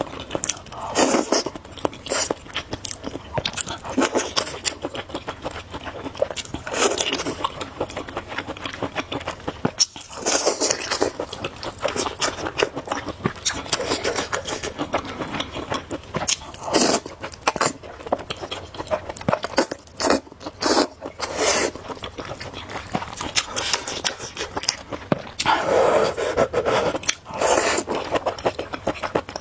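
Close-miked eating of noodles: chewing, biting and slurping, with louder bursts coming every few seconds.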